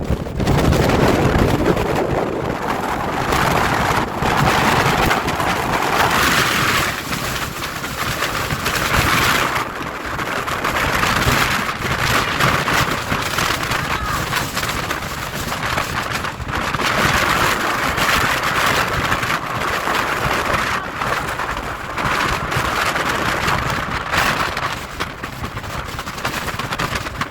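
Storm wind buffeting the microphone over heavy ocean surf. The roar swells and eases every few seconds as gusts and waves come through.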